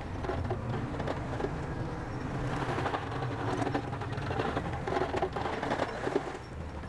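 Bulldozer diesel engine running steadily under a low drone, with rapid metallic clanking and rattling over it.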